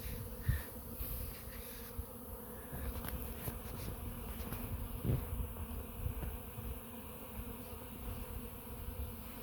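Honeybees buzzing in a dense swarm of foraging traffic around the hive entrance: a steady, many-winged hum.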